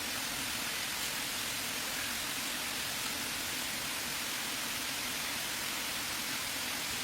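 Steady, even rushing hiss with no separate knocks or voices in it.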